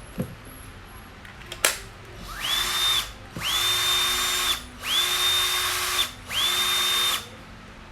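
Ryobi cordless drill run free four times in short bursts, the motor whining up to a steady high pitch each time and stopping, after a single sharp click.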